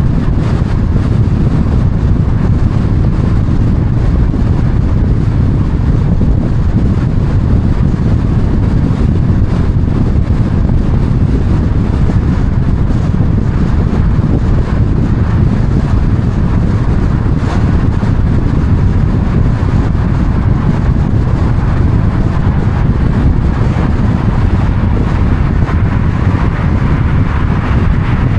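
Steady low rumble of a moving vehicle's road and wind noise, without a break.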